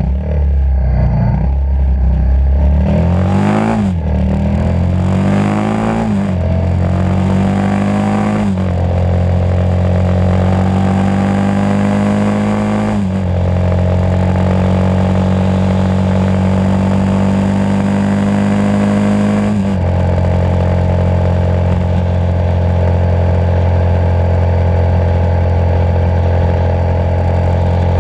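Motorcycle engine accelerating up through the gears: the engine note climbs and drops back at each upshift, three times in quick succession, then settles into a steady cruise with two more shifts to a lower, steady note.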